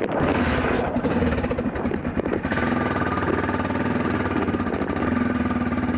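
Dirt bike engine running, its note settling into a steady hum about halfway through.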